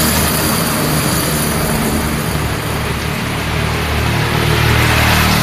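Road traffic: a vehicle's engine running low and steady over the wash of the road, its hum growing louder in the second half.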